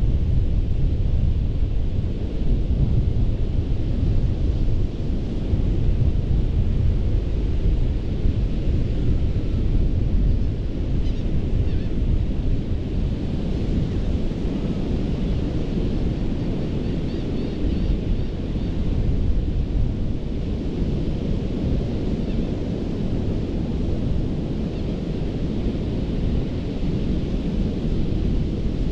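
Gulf of Mexico surf washing onto a sandy beach: a steady, deep rumbling wash with no breaks, with wind on the microphone adding to the low rumble.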